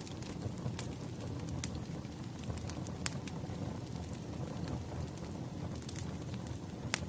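Wood fire crackling: a steady low rumble of burning logs with scattered sharp pops, the loudest just before the end.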